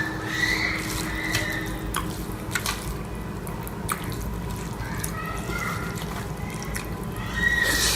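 Wet eating sounds of a person eating rice and egg curry: scattered sharp clicks and wet lip smacks.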